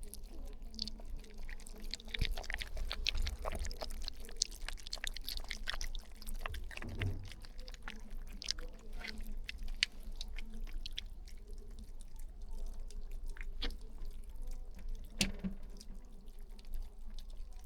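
Puppies feeding: a run of small, irregular wet clicks and smacking mouth sounds.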